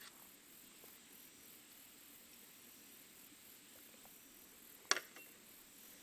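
Faint, steady chirring of insects in the background, with a single sharp click about five seconds in and a few tiny ticks around it.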